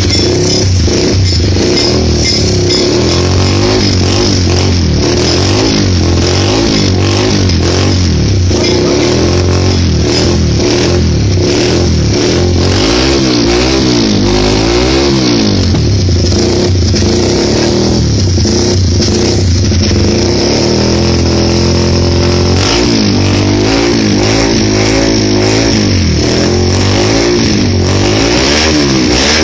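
Motorcycle engine running loud through an SC Project carbon and stainless exhaust with the dB killer removed, revved up and down repeatedly between stretches of steady running.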